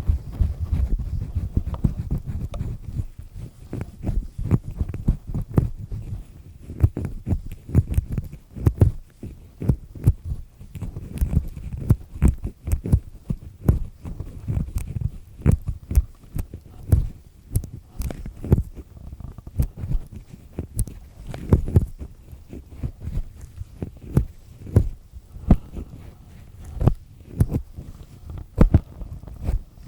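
Black triple-disc earpick scraping and peeling inside an ear canal, close-miked: a dense, irregular run of crackly scratches and clicks over low thumps and rubbing.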